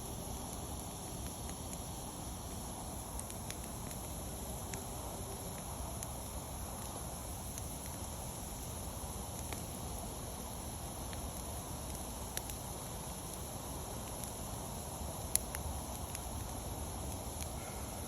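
Wood campfire burning: a steady low rush with sharp crackles and pops every second or two, the loudest about fifteen seconds in.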